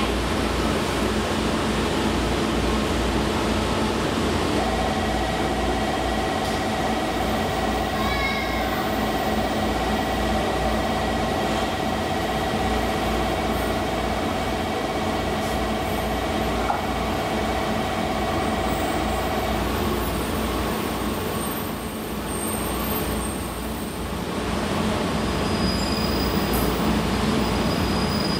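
Steady rumble of trains at a railway platform, with a steady tone sounding for about fifteen seconds in the middle. Near the end a high wheel squeal begins as the Yufuin no Mori diesel express pulls in.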